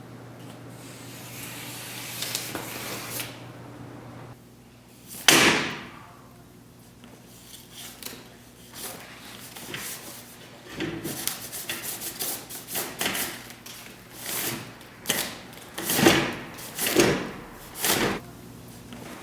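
A single sharp bang about five seconds in, then a run of irregular knocks and clatters, like furniture or objects being handled and shut.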